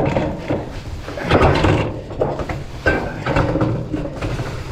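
Sheet-metal ridge cap sliding and scraping along the metal roof panels, with uneven scrapes and a few knocks.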